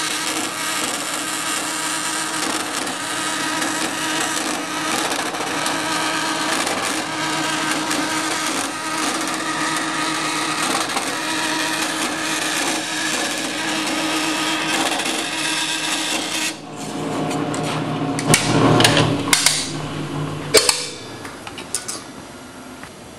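Electric power tool running steadily while cutting 1/16-inch aluminum sheet to size; the motor cuts off suddenly about two-thirds of the way in. A few sharp knocks and clatters follow near the end.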